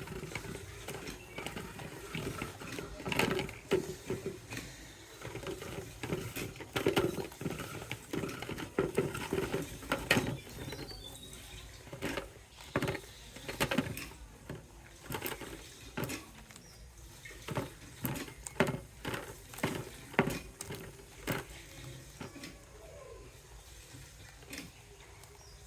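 Hands working a handmade weaver-bird nest of dry plant fibres: irregular rustling with crackling clicks as the strands are bent and tucked in.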